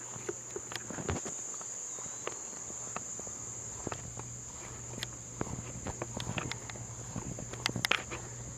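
Steady high-pitched drone of insects such as crickets, with scattered light footsteps and small knocks, busier near the end.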